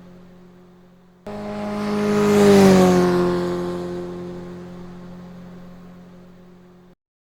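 MotoGP race motorcycle passing at speed: its engine note swells to a loud peak and drops in pitch as it goes by, then fades away. It starts abruptly about a second in, after the tail of an earlier fading pass, and cuts off suddenly near the end.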